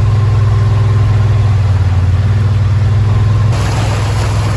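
Yamaha Wolverine side-by-side engine running with a steady low hum as it drives. About three and a half seconds in the sound changes abruptly, the hum a little higher and with more hiss over it.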